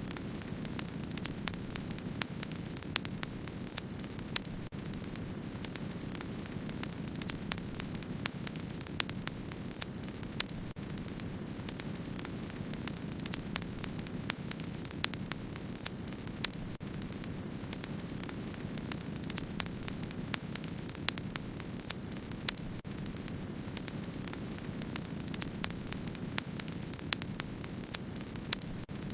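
Wood fire crackling: a steady low rush of burning with many irregular sharp crackles and occasional louder pops.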